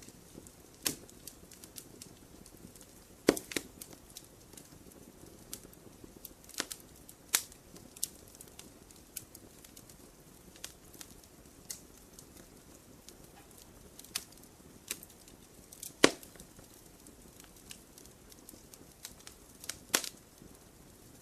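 Wood campfire crackling: irregular sharp pops and snaps over a soft steady rustle of the flames, with two louder pops, one about three seconds in and one about three-quarters of the way through.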